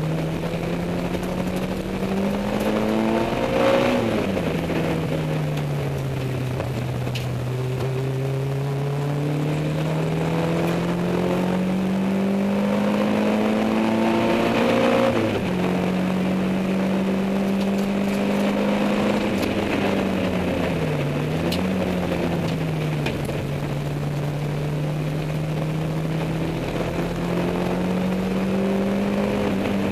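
Peugeot 205 MI16's 16-valve four-cylinder engine running under load. Its pitch climbs slowly, then drops sharply about four seconds in and again about halfway through, and dips briefly once more later on.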